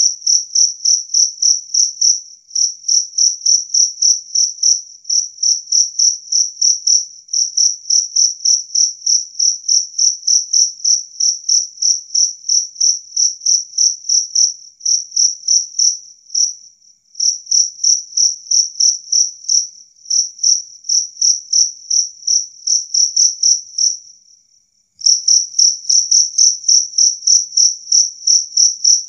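Jangkrik kalung (two-spotted field cricket) calling clear and loud: a fast, even series of high chirps, about four a second, in long runs broken by short pauses. Near the end the chirps fade into a brief soft trill and stop for about a second, then resume.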